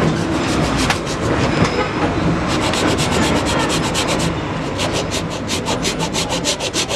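Handheld hacksaw blade sawing into the hard shell of a small calabash gourd, quick back-and-forth rasping strokes that settle into a regular rhythm of about five a second from about a third of the way in.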